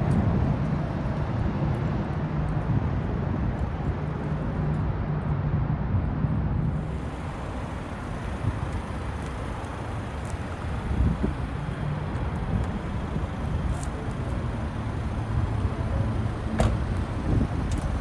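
A car engine idling steadily, with a few sharp clicks near the end.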